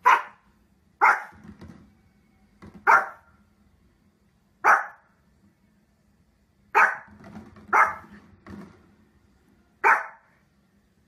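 A small fluffy dog barking: seven single, sharp barks, spaced irregularly one to two seconds apart.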